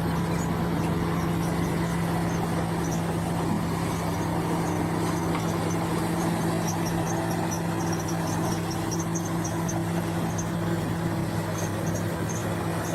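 Bulldozer's diesel engine running steadily at a constant pitch, with faint high chirping over it.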